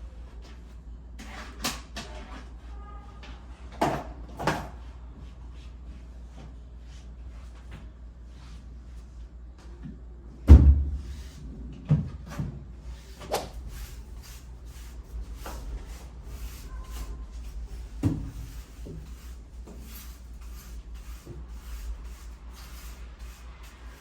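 Scattered knocks and clunks of household objects being handled and set down during cleaning, the loudest a heavy thump about ten seconds in, over a low steady hum.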